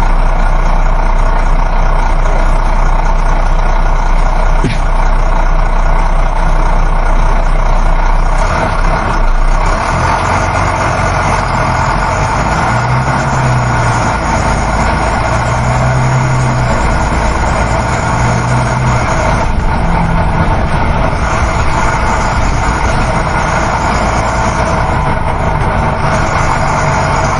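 Inside a moving coach bus: the steady drone of the engine mixed with road and wind noise. A low hum swells and fades a few times in the middle.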